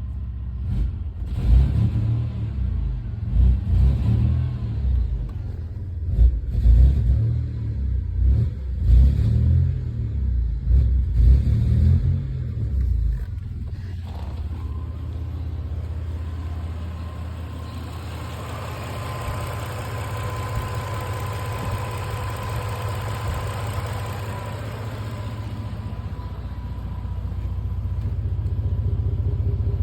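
2000 Toyota 4Runner's 3.4-litre V6 running with an uneven, lumpy low beat for the first dozen seconds or so, then settling into a steadier run; the owner suspects a bad misfire.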